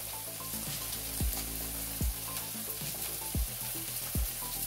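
Hamburger patties frying in cast-iron skillets, a steady sizzle. A short low thump comes roughly once a second.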